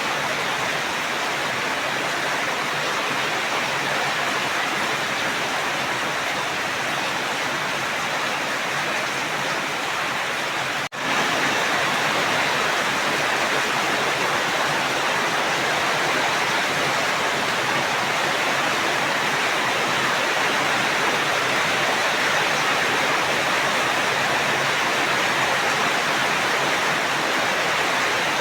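Steady heavy rain, an even, unbroken hiss. It cuts out for an instant about eleven seconds in, then carries on slightly louder.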